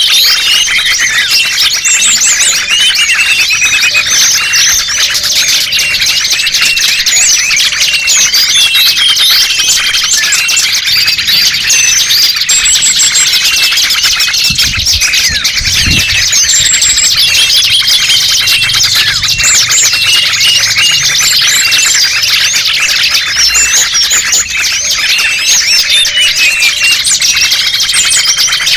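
Dense, continuous chorus of many small songbirds chirping and twittering over one another, a bird-lure (pikat) recording meant to draw small birds in.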